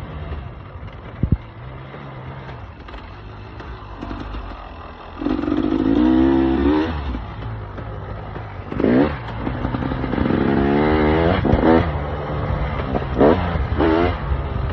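KTM EXC 300 two-stroke enduro motorcycle engine on a ride: running at low revs for the first few seconds, then the throttle is opened several times, the revs rising in a longer pull near the middle and in short blips towards the end. A single sharp knock comes about a second in.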